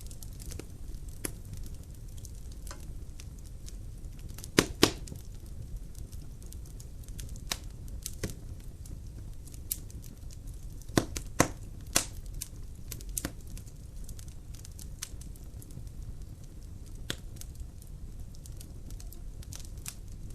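Logs burning in a fireplace, crackling with irregular sharp pops over a steady low rumble. A few louder pops stand out: two about a quarter of the way in and three around the middle.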